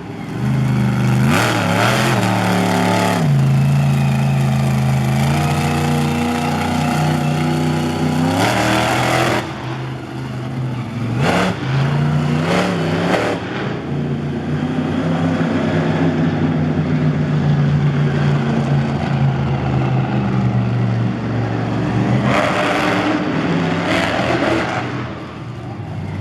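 Monster truck engine running hard during a run, revving up and down repeatedly, with several brief louder surges.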